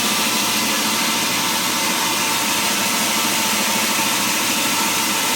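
Wood-mill machinery running steadily, a constant mechanical noise with a faint steady hum.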